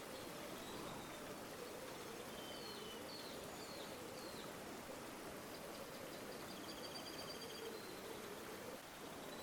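River water flowing steadily with a wavering gurgle. A small bird gives four short falling chirps a few seconds in, then rapid trills later on.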